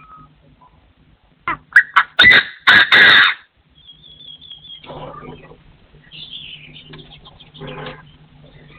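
Partridge calling loudly: a few short sharp notes about one and a half seconds in, then two longer harsh calls, followed by a thin whistled bird note and fainter calls.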